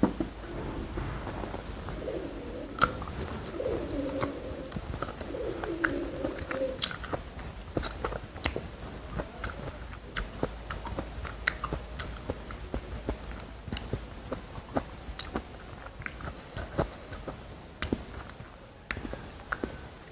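Close-miked eating: crisp bites and chewing, with many sharp, irregular crunches. In the first several seconds a low wavering sound like a dove cooing sits under the chewing.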